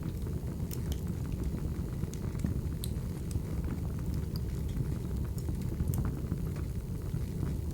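Firewood burning: a steady low rumble of flames with scattered sharp crackles and pops at uneven intervals.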